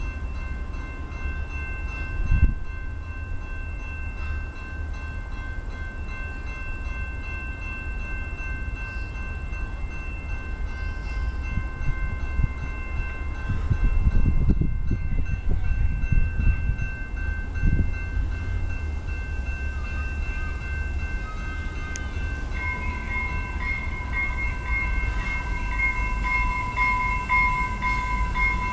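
Commuter train locomotive running, with a steady low rumble, a few thumps, and a steady high whine of several tones that grows louder and wavers near the end.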